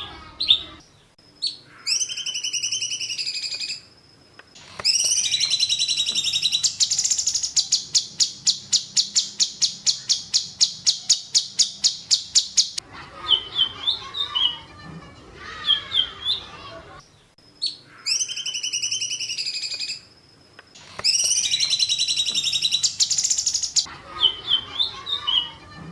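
Songbird song from a masteran birdsong recording: high whistled phrases, then a long rapid trill of repeated high notes, about four a second for several seconds, then short chirps. The same sequence repeats about sixteen seconds later, as in a looped recording.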